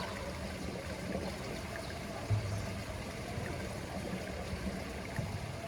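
Pool water trickling steadily, with a brief low thump about two seconds in.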